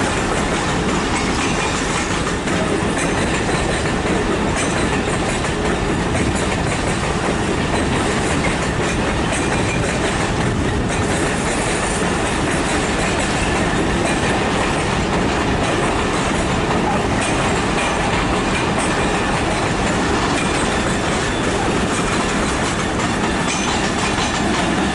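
Long freight train hauled by a Class 66 diesel locomotive rolling steadily past, its wagons running by at an even, constant level.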